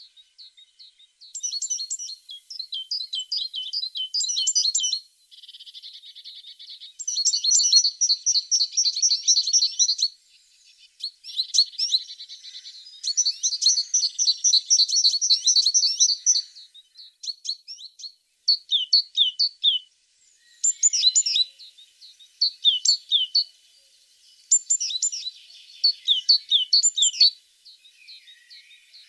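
A tit singing: bursts of rapid, high chirps and trills separated by short pauses, with a buzzy rattling call about five seconds in.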